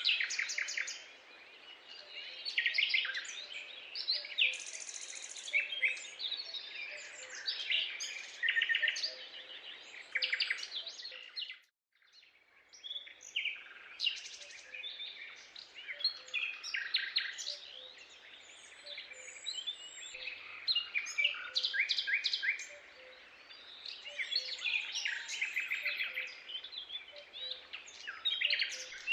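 Many birds calling at once: dense, overlapping chirps and trills over a faint steady background hiss. The sound drops out to near silence for a moment about twelve seconds in, then resumes.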